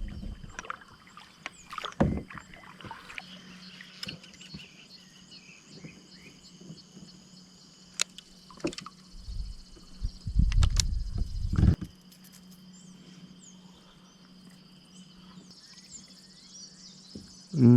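Knocks and handling noise aboard a small fishing boat on the water, with a louder low rumble of movement about nine to twelve seconds in, over a faint steady hum and a steady high buzz.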